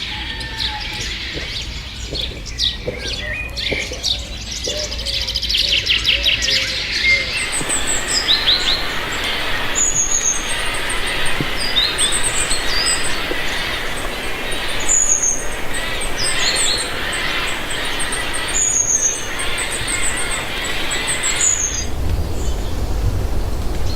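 Wild birds singing and chirping, with quick trills. About seven seconds in, the sound turns to a steady hiss with short high chirps repeating every second or so.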